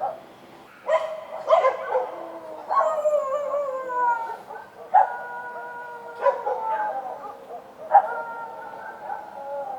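Several street dogs barking and howling: sharp barks about a second apart, each running into a long howl that slides down in pitch, with the dogs' calls overlapping.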